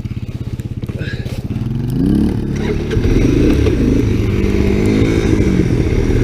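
Honda 250SX three-wheeler's engine idling with an even putter. About two seconds in it revs up and runs harder and louder, its pitch rising and falling with the throttle.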